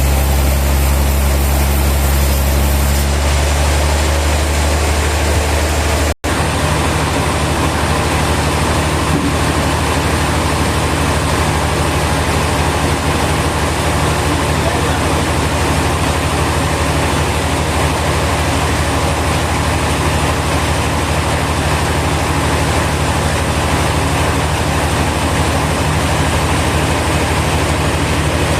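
Heavy engine-driven machinery running steadily, a continuous low hum under broad mechanical noise. The sound cuts out for an instant about six seconds in, and the low tone shifts slightly after that.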